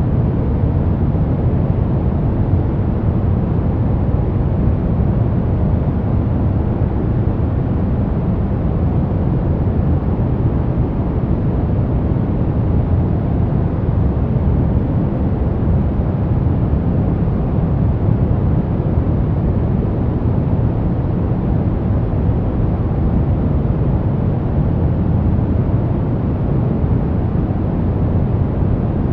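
Steady, unchanging white noise for masking sound, deep and rumbly, with most of its weight in the low end and little hiss on top.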